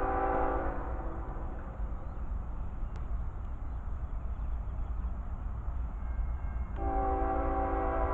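Norfolk Southern intermodal freight train passing, its locomotive's multi-chime air horn sounding: one long blast ends under a second in and another starts near the end, over the steady low rumble of the train.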